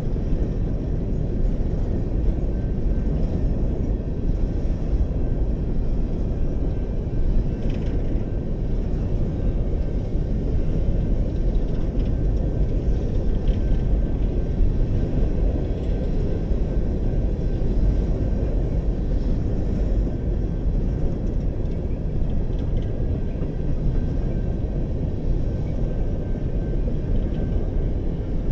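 Coal cars of a BNSF freight train rolling past: a steady low rumble of steel wheels on rail.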